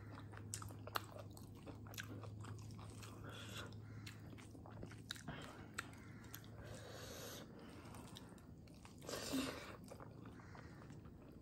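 Close-up chewing of rice and dal eaten by hand: soft, scattered mouth clicks and smacks, with one louder half-second noise about nine seconds in, over a faint steady low hum.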